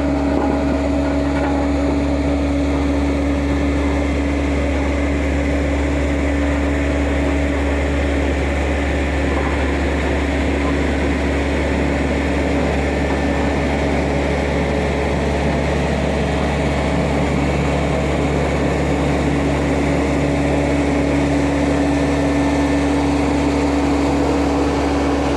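Diesel engine of heavy road-construction machinery running steadily, a constant low rumble with a steady hum that does not rise or fall.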